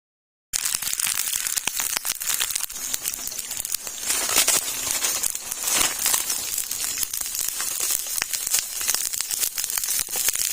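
Dense, steady crackling and rustling full of small clicks, beginning abruptly about half a second in.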